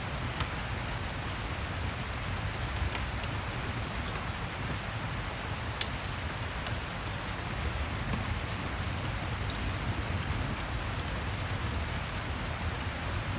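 Steady rain ambience: an even hiss of rain with a low rumble underneath, dotted with scattered sharp ticks and clicks.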